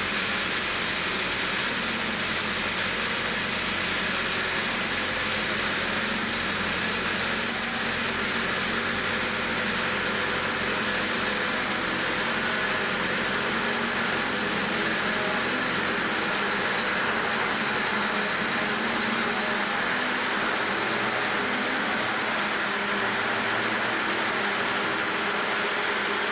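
Diesel-electric freight locomotives idling on a stopped train, a steady, unchanging drone.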